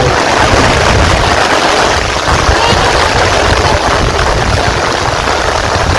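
Heavy rain falling, a steady, loud hiss.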